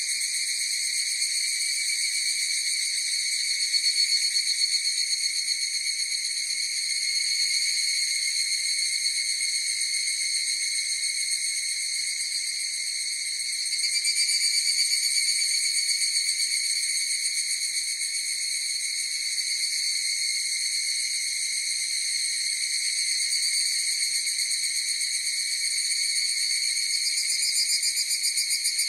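A chorus of higurashi (evening cicadas, Tanna japonensis) calling. Their high, ringing trills overlap into one continuous sound that swells and fades, louder about four seconds in, around the middle, and again near the end.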